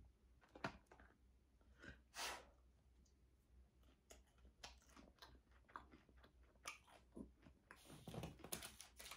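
A person chewing food with the mouth closed: soft, wet mouth clicks and smacks at an irregular pace. There is one slightly louder noise about two seconds in, and a busier run of chewing near the end.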